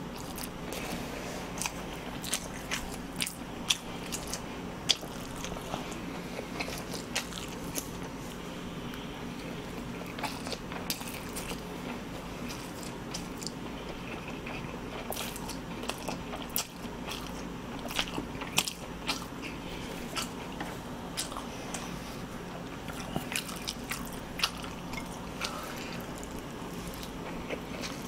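Close-miked chewing and slurping of a big mouthful of cold spicy naengmyeon-style noodles, with many sharp wet mouth clicks and crunches coming at irregular intervals. The noodles are tough and rubbery to chew.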